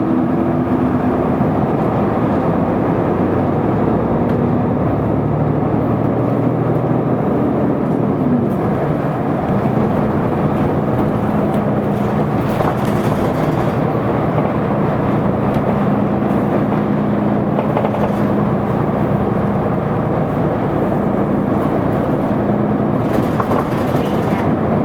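Isuzu Erga city bus's diesel engine heard from inside the cabin, pulling away and running under way. The engine note shifts during the first several seconds, then holds steady over road and cabin noise.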